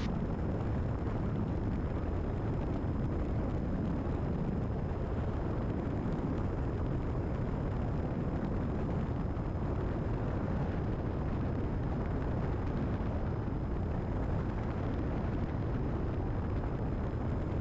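Steady engine and propeller drone inside the cabin of a Cessna 172RG, its Lycoming O-360 running at reduced approach power, with an even rush of airflow and no change in pitch.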